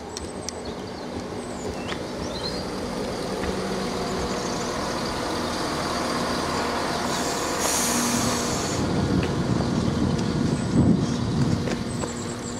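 Class 170 Turbostar diesel multiple unit running into the station platform, its underfloor diesel engines humming steadily under wheel and rail rumble that grows louder as it draws alongside. A burst of hissing, typical of air brakes, comes about seven seconds in and lasts a second and a half.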